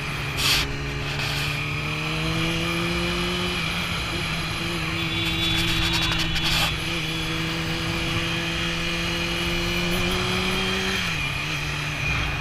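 Motorcycle engine running under way, its pitch climbing slowly, holding, then dropping about eleven seconds in, over wind and road noise, with a couple of short clicks.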